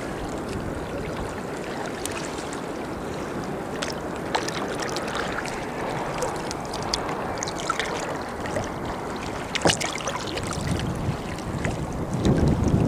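Sea water lapping and splashing against a kayak's hull, with scattered small splashes and drips, and wind on the microphone that grows stronger near the end.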